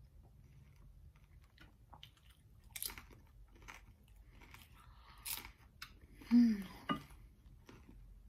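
Crisp fried tostada shell snapping and being chewed: scattered crunches and mouth sounds, with a short voiced sound from the eater, the loudest moment, a little over six seconds in.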